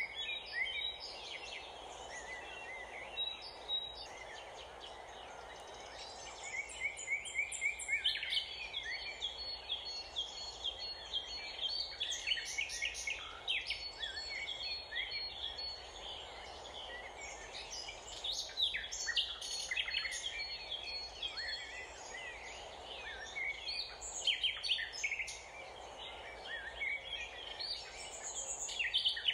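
Several songbirds chirping and singing in quick bursts of chirps and trills over a steady background hum of outdoor noise.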